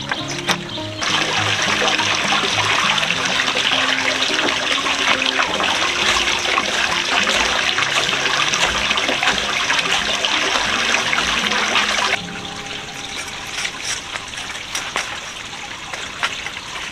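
Water running or pouring steadily, starting abruptly about a second in and cutting off about twelve seconds in, over background music.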